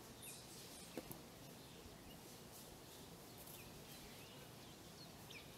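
Faint outdoor ambience with small birds chirping, short high calls scattered throughout, and a single sharp click about a second in.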